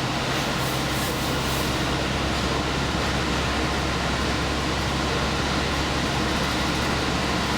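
Diesel express train running along the line, heard from inside: a steady low engine drone under a wash of wheel and rail noise, with part of the engine note dropping away about three seconds in.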